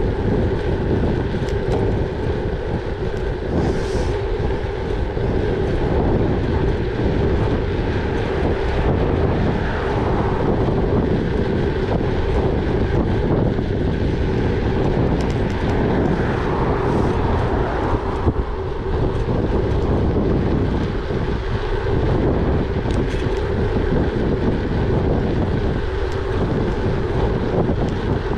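Gravel bike riding along: a steady rumble of tyres rolling, mixed with wind buffeting the microphone.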